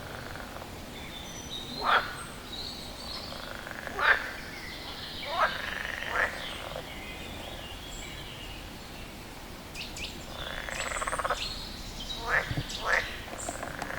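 A frog calling: short, sharp croaks every second or two, a gap of several seconds, then two quick ones near the end. Faint bird chirps sound behind it.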